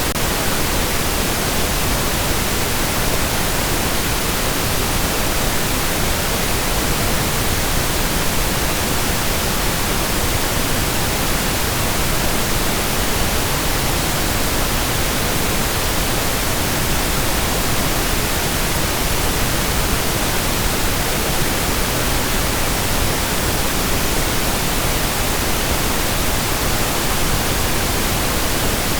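Steady pink noise: an even, continuous hiss across the whole range, unchanging throughout.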